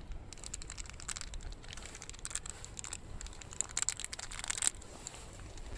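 Crisp crinkling and rustling of a small plastic sansho pepper packet being handled and shaken out over food, in irregular bursts of small clicks that are busiest in the second half.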